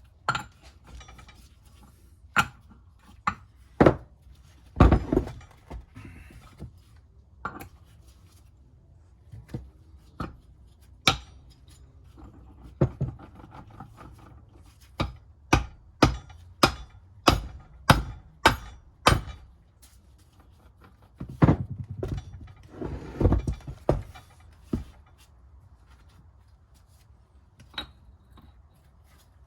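Hand tools knocking and tapping on the metal parts of a BMW E46 M3 differential during reassembly: irregular sharp knocks, a quick run of evenly spaced taps about two a second midway, and short bursts of scraping and handling noise.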